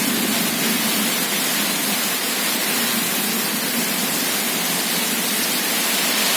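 Heavy rain pouring down in a violent windstorm: a dense, steady hiss that keeps up without a break.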